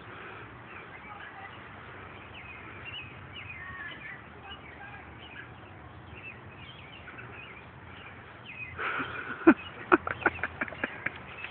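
Faint birds chirping in the background. From about nine seconds in comes a quick, irregular run of sharp cracks and snaps, the loudest near the start of the run.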